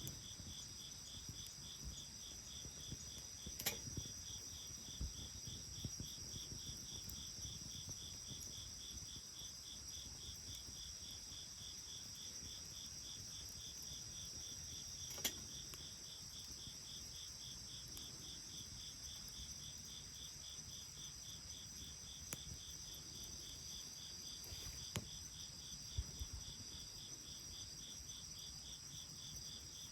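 Crickets chirping steadily: a high, even trill with a faster regular pulsing chirp beneath it, over the low rustle of a bonfire that gives a few sharp pops and crackles.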